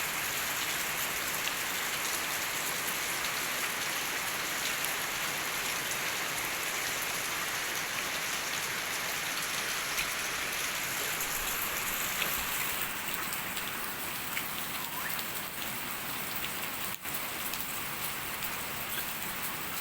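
Steady rain falling, a little softer from about thirteen seconds in.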